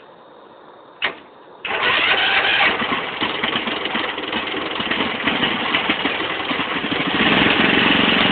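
A single sharp knock, then a small petrol engine starts abruptly and runs loudly close by with a fast, even pulsing.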